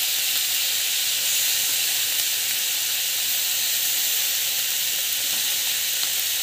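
Chopped onion, garlic, dried red chillies and coconut pieces sizzling steadily in hot oil in a pan as they fry.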